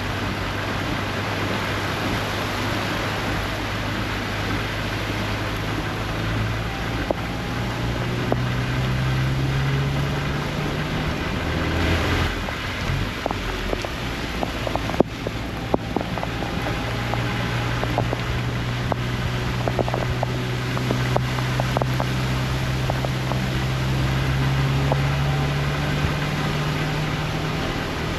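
Vehicle engine running, its hum slowly climbing in pitch twice, under a steady hiss of wind and rain. A few sharp knocks and ticks come through in the middle.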